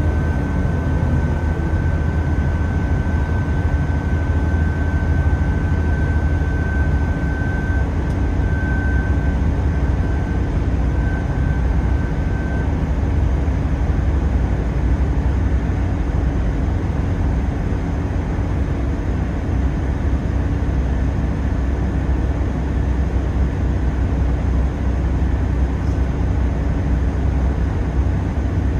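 Cabin noise of a Class 166 diesel multiple unit running at speed: the steady drone of its underfloor diesel engine with wheels on the rails. A faint high whine fades out a little before halfway.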